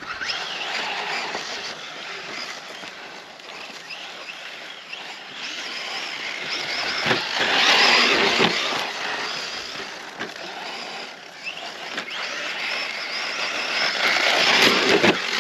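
Brushless electric RC truck driven hard over sand and rocks: the motor whine rises and falls with the throttle over a steady grinding hiss of tyres and gravel, loudest about halfway through and again near the end.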